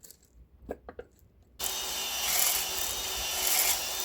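A few light clicks, then about a second and a half in a power drill starts spinning a ball-type flex hone inside a Ford 351 Windsor cylinder bore: a steady drill whine under a harsh scrubbing of the hone's abrasive balls on the oiled cylinder wall, swelling and easing slightly. The hone is deglazing and cross-hatching the bore before reassembly, lubricated with 10W-30 oil.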